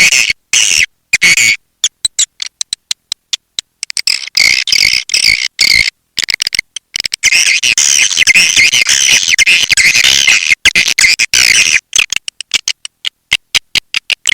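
Swiftlet call recording: edible-nest swiftlets chattering in rapid high chirps and clicks, played as a lure to draw swiftlets into a swiftlet house. The chirping comes in short runs cut by abrupt silent gaps at first, then runs almost unbroken from about halfway through.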